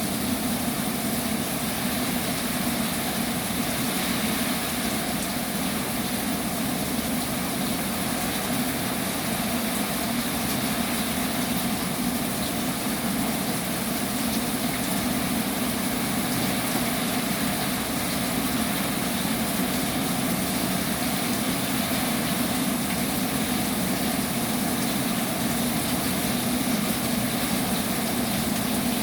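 Heavy rain falling: a steady, unbroken wash of noise with no letup.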